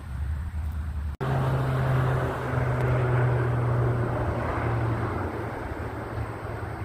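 Crop-dusting airplane's engine droning as it flies by with a steady low tone, cutting out for an instant about a second in, then louder and slowly easing off toward the end.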